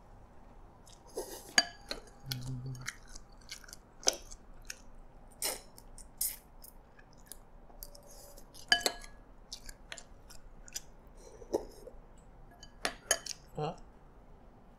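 Close-miked chewing of prawn and noodles: wet mouth sounds with sharp clicks and smacks scattered irregularly, and a brief low hummed "mm" about two and a half seconds in.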